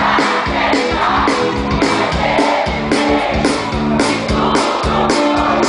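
Live band playing a rock song, drums keeping a steady beat of about two hits a second under guitar and bass, with some singing.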